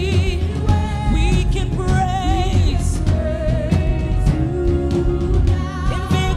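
Gospel worship music: several voices singing with a wavering vibrato over a full band with a steady beat.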